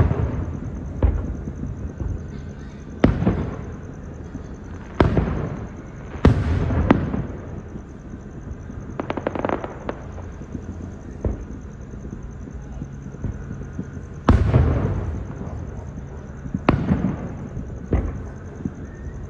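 Fireworks going off: a series of sharp booms at uneven intervals of one to several seconds, each trailing off in a rolling echo, with a brief burst of rapid crackling about halfway through.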